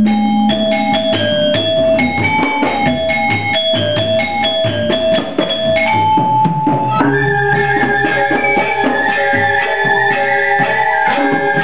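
Balinese gamelan orchestra playing: bronze metallophones strike rapid pitched notes with drums underneath. About seven seconds in, the texture changes to denser, longer-ringing tones.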